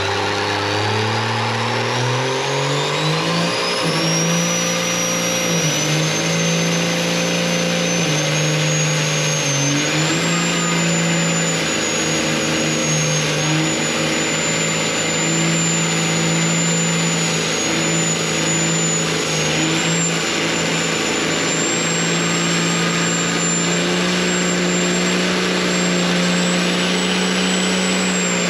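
Turbocharged truck engine revving up over the first few seconds, then held at high rpm for a long stretch with slight dips. Through it runs a high turbo whistle that climbs as it spools and then stays up.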